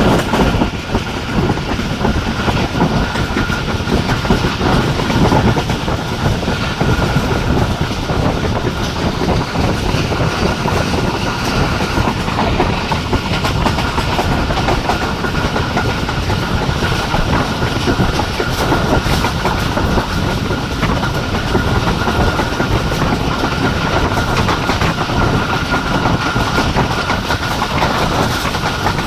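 Jaffar Express passenger train running at speed: a continuous rumble with wheels clicking over the rail joints and a steady high-pitched whine.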